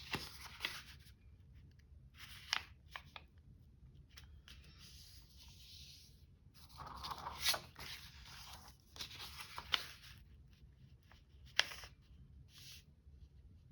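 A sheet of paper being handled and folded by hand: intermittent rustling and crinkling, with a few sharp taps or clicks spread through.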